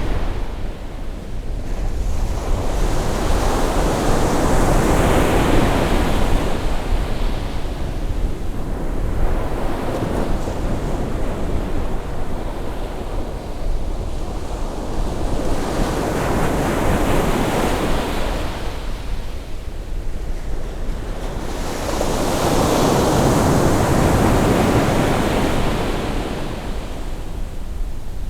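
Ocean waves of a rising tide breaking and washing up a beach, in several surges that each swell and fade over a few seconds.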